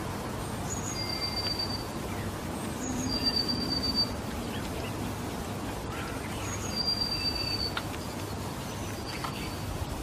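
A songbird's thin, high whistled call: a short higher note, then a held one, repeated every two to three seconds over a steady background hiss.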